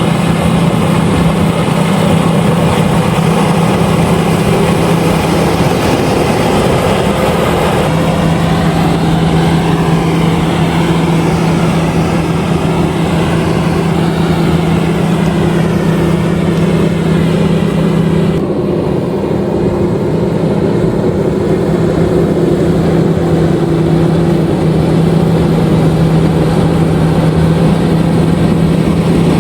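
LOVOL RG130EVO rice combine harvester running steadily under load, a continuous engine drone with a strong low hum and a noisy mechanical wash over it. The higher hiss thins out about two-thirds of the way through.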